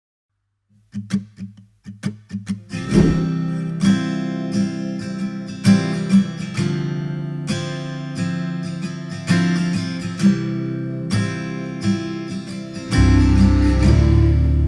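Background music: an acoustic guitar intro, single picked notes, then fuller strummed chords from about three seconds in, with a bass joining near the end.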